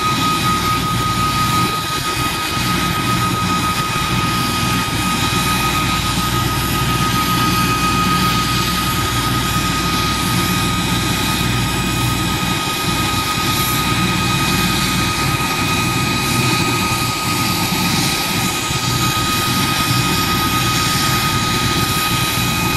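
CH-47 Chinook tandem-rotor helicopter with its twin turboshaft engines running steadily: a loud, continuous high-pitched turbine whine over a low throb.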